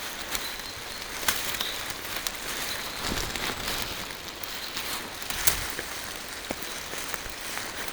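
Steady rain falling through forest trees, with a dense patter of drops on leaves and scattered sharper drips, two of them louder. A couple of soft low footfalls on the forest floor come about three and five and a half seconds in.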